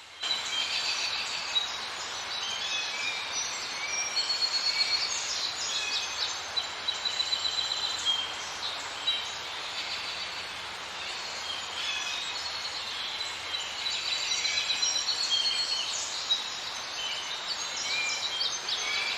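Several birds chirping and trilling over a steady outdoor hiss. The sound stops abruptly at the end.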